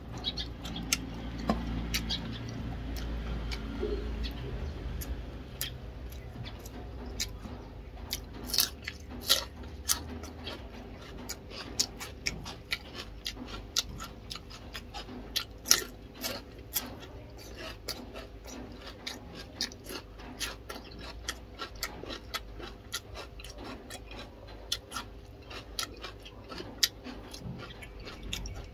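Close-up chewing of food, with many sharp, irregular crunches and mouth clicks from biting raw cucumber, plus a low rumble in the first few seconds.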